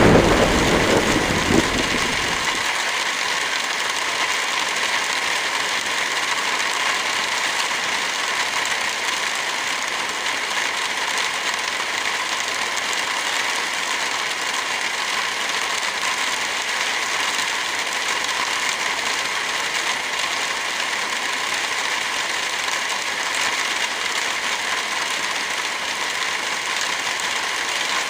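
Heavy rain falling steadily. A thunder rumble at the start dies away within about two and a half seconds.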